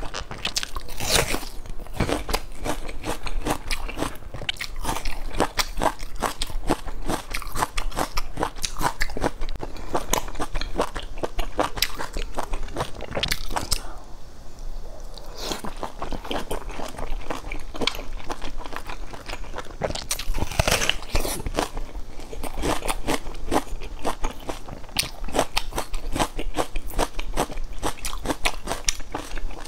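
Close-miked eating: crunching bites into a whole raw red onion and chewing, then biting and chewing a large pan-fried dumpling. A dense run of crisp crunches, with a short lull about halfway.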